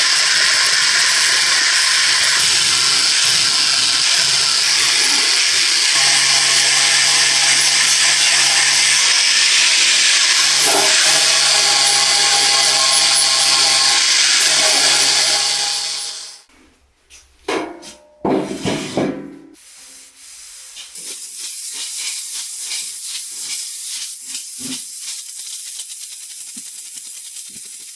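A power tool runs steadily with a loud, hissing, abrasive noise, then stops about 16 seconds in. A few knocks follow, then a quieter steady hiss.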